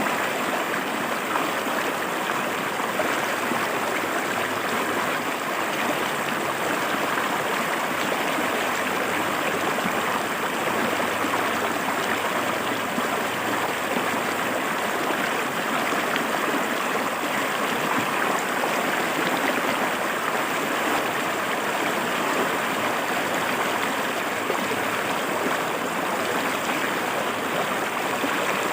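River water rushing steadily over rocks in a shallow forest stream, an even, unbroken splashing.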